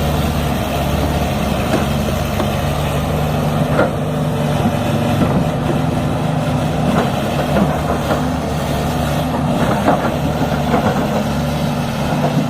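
Heavy diesel engine of a tractor running steadily at a low, even speed.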